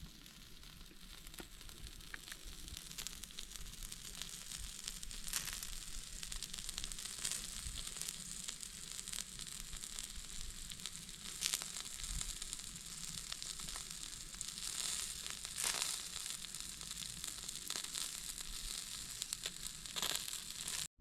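Food sizzling as it fries in a pan over a campfire: a steady hiss thick with sharp crackles and pops, building over the first few seconds and then holding.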